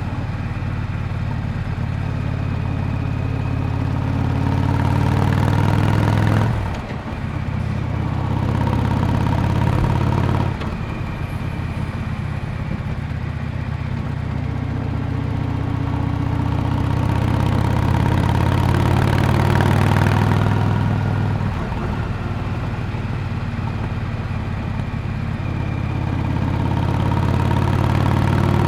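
1998 Yamaha Drag Star 400 Classic's air-cooled V-twin exhaust, running steadily while riding. The note drops briefly about six and a half seconds in and again about ten seconds in, and eases off about twenty seconds in.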